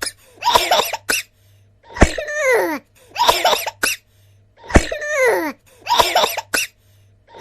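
Cartoon voice sound effect: short cough-like vocal bursts repeated in a loop, five in all, every other one starting with a sharp click and falling in pitch.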